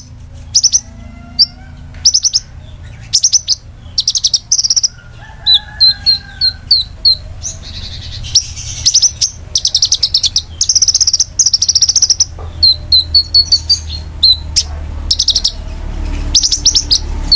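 Caged songbird singing: short, sharp, high-pitched trill bursts about once a second, mixed with quick strings of repeated chirps, over a low steady hum.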